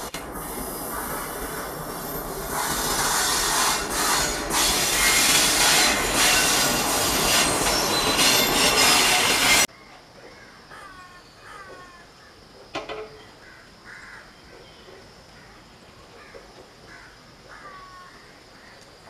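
An electric-locomotive-hauled passenger train passing close by: a loud, steady rush of wheels on rail that grows louder a few seconds in, then cuts off abruptly about halfway through. The rest is much quieter, with birds chirping and one short sharp sound.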